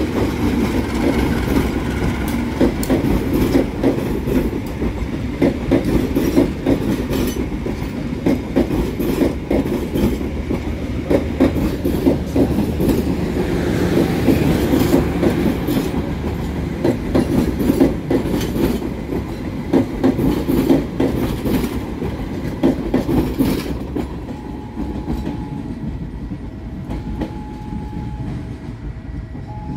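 Passenger train passing close by, its wheels clattering steadily over the rail joints; the clatter thins and fades about twenty-four seconds in. Near the end a two-note tone alternates.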